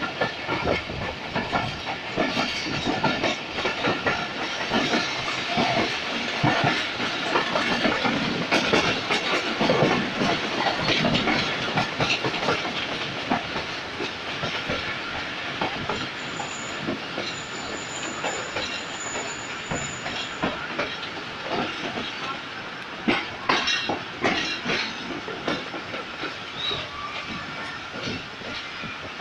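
Passenger train coach running on the track, heard from an open window: wheels clattering over the rail joints under a steady rushing noise. The clatter and rush grow quieter through the second half as the train slows.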